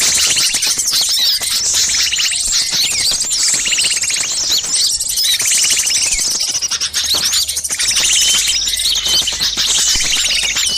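Dense, noisy chorus of many small songbirds chirping, trilling and rattling over one another, a mixed bird-lure recording of agitated small birds such as bulbuls and tailorbirds.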